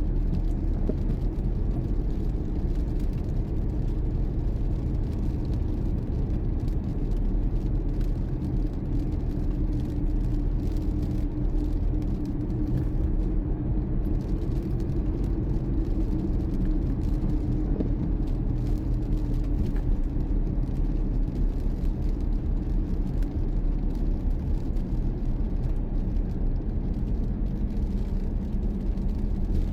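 Car being driven: steady engine and road rumble, with a low hum that holds its pitch.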